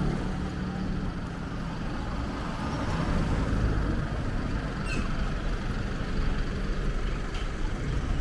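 Road traffic noise from passing motor vehicles, a steady low rumble with a small click about five seconds in.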